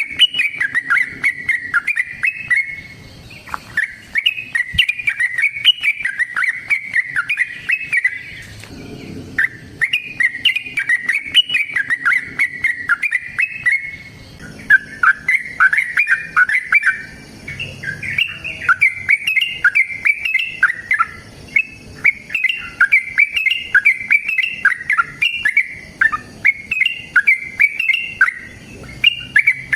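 Yellow-vented bulbul singing a long, rapid, chattering song in phrases of several seconds, with brief pauses between them; vigorous, combative song of the kind used to lure or provoke other bulbuls.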